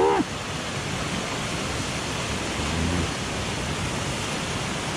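Mountain stream rushing steadily, a constant hiss of flowing water.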